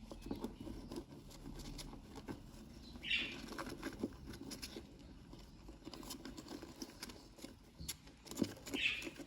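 Budgerigar chicks in a nest box: two short, high cheeps a few seconds apart, over a scatter of small scratching and tapping sounds from birds shifting about on the nest-box floor.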